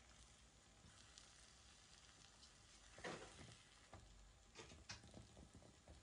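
Near silence with a few faint light taps and scrapes of kitchen utensils, the clearest about halfway through and a small cluster shortly after.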